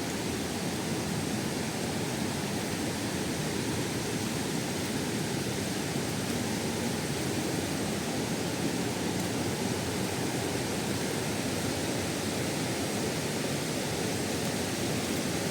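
Water pouring down a tiered waterfall, a steady, unbroken rush.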